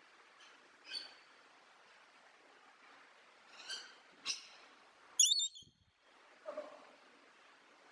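A bird giving short, separate calls over a faint steady hiss. The loudest and highest-pitched call comes about five seconds in, and a lower call follows near the end.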